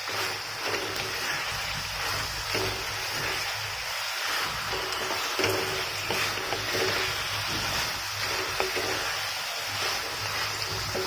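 Drumstick pieces frying in thick oily pickle masala in a non-stick pan, sizzling steadily, with soft scrapes of a wooden spatula stirring them.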